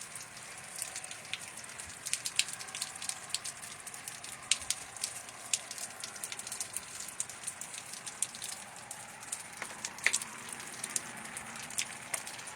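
Steady summer rain hissing, with many irregular sharp ticks of single drops striking nearby surfaces.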